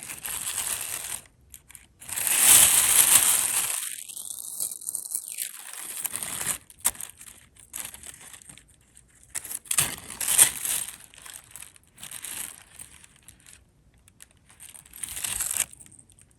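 Plastic bag crinkling in several bursts as costume jewelry is handled and sorted, with scattered light clicks and clinks of metal pieces.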